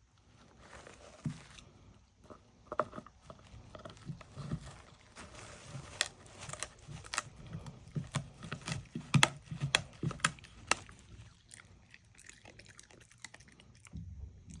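A dog chewing and crunching food, with irregular sharp crunches and clicks that thin out over the last few seconds.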